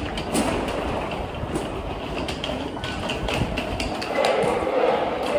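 Beijing subway train running along the track: a steady rumble with scattered wheel clicks.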